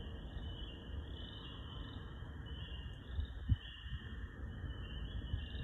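Chorus of singing insects: a high, continuous trill that swells and fades about twice a second, over a low rumble.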